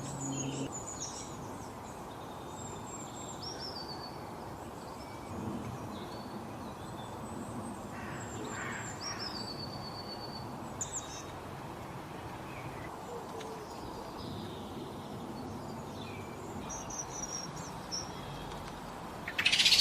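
Several wild birds chirping and whistling in short, scattered calls over a steady background hiss. A low hum stops under a second in, and a loud burst of high-pitched sound begins near the end.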